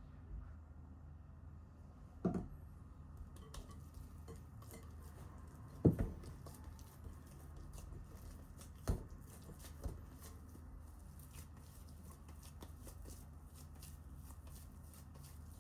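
Handling noises, likely kitchen work: four sharp knocks of objects set down or struck, the loudest about six seconds in, among light clicks over a low steady hum.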